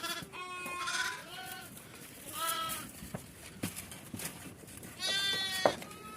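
Sheep and goats of a herd bleating, about three wavering calls spread over a few seconds, with a few sharp knocks between them.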